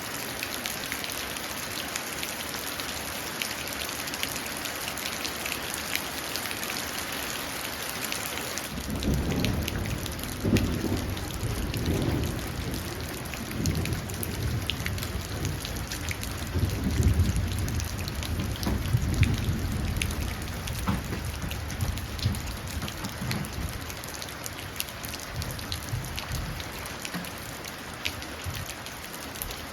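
Steady rain falling into a puddle, with sharp drop ticks. About nine seconds in, a long roll of thunder sets in low and deep, swells twice and dies away over about fifteen seconds.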